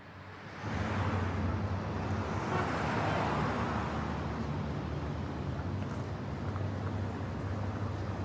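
Street traffic: a motor vehicle passing, its noise swelling to a peak about three seconds in and easing off, over a steady low engine hum.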